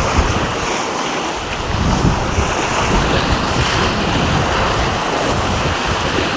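Wind buffeting the microphone over the wash of sea waves, a steady loud rush.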